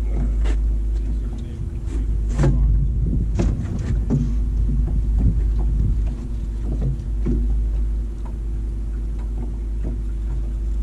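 Wind buffeting the microphone on a boat, a heavy low rumble with a steady low hum under it and scattered knocks and slaps.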